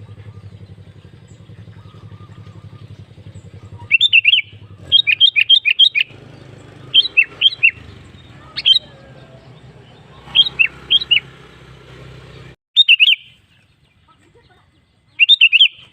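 Sooty-headed bulbul (kutilang) singing loud, short phrases of quick, falling whistled notes, about seven phrases with pauses between. A low steady hum lies underneath and stops about three-quarters of the way through.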